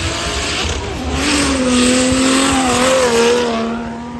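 Drift car's engine held at high revs under a slide, with a hiss of tyre noise over it. It dips briefly about a second in, comes back louder, and fades near the end.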